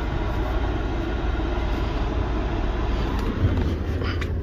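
SUV's petrol engine running, heard from inside the cabin: a steady low rumble under an even hiss.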